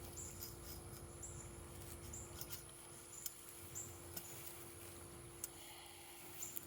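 Faint outdoor background: short high chirps about once a second over a low steady hum, with a few light clicks.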